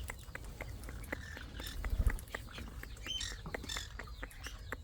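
Parrot giving a few short, soft chirps amid scattered light clicks and rustling.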